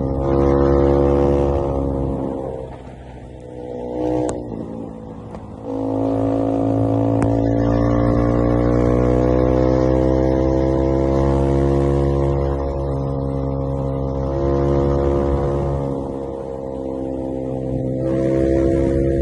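Motorcycle engine, plausibly an IZh Jupiter-5 two-stroke twin, running hard under throttle. It eases off about two and a half seconds in, picks back up around six seconds, and holds a steady high note.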